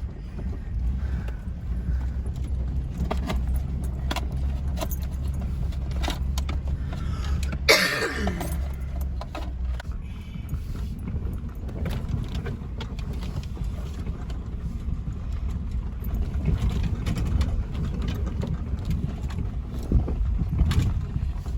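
Steel T-posts clanking and clattering as they are handled, over an engine idling steadily. About eight seconds in comes one loud clang with a ringing tone that falls in pitch, and there is another loud clank near the end.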